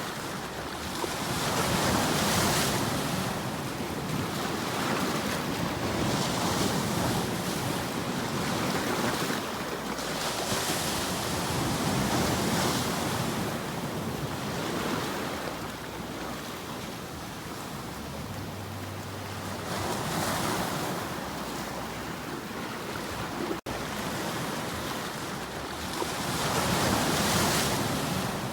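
Surf: waves breaking and washing in, the hiss swelling and falling every few seconds. There is a momentary dropout about three-quarters of the way through.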